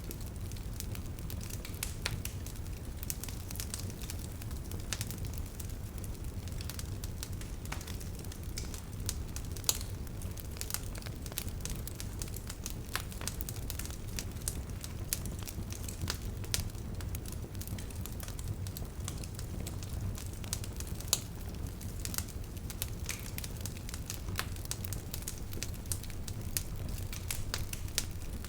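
Bonfire crackling: a steady low rumble of burning wood with frequent sharp pops and snaps, a few of them louder than the rest.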